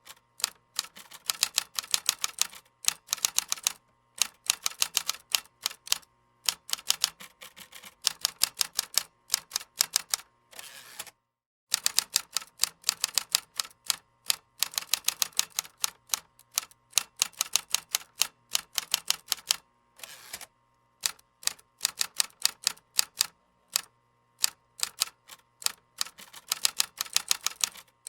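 Typing on a computer keyboard: rapid runs of key clicks in bursts of a few seconds, broken by short pauses, with one brief silence a little before halfway.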